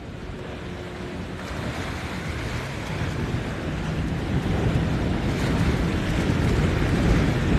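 Surf and wind buffeting the microphone, with a boat's engine hum growing louder as it comes through the inlet.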